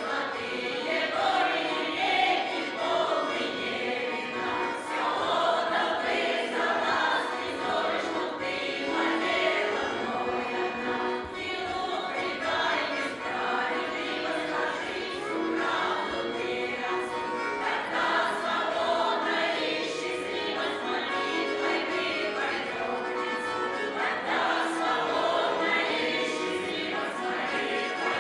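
Choral singing with musical accompaniment.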